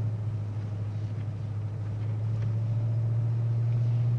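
Car engine running steadily while driving, a low drone that rises slightly in pitch and loudness near the end.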